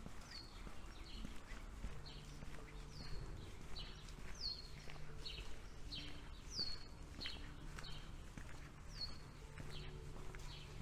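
A small bird calling over and over, short high chirps that fall in pitch every second or two, with quicker short chirps between, over a faint low steady hum.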